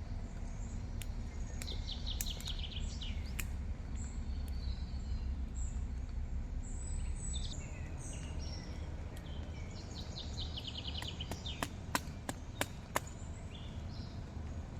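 Wild birds chirping, with two quick trills of rapidly repeated notes, over a steady low outdoor rumble. Near the end come a few sharp clicks or knocks.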